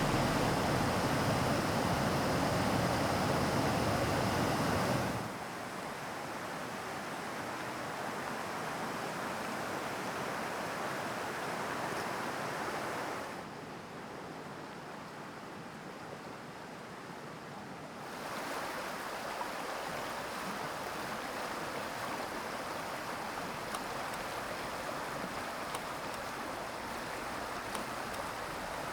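Rushing water of a mountain stream, a steady noise whose loudness drops suddenly about five seconds in, dips again from about halfway to around eighteen seconds, then returns.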